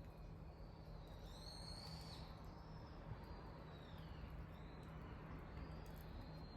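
Small birds calling faintly, thin high chirps that recur, the clearest one about a second and a half in, over a steady low hum and faint crackles from the wood fire.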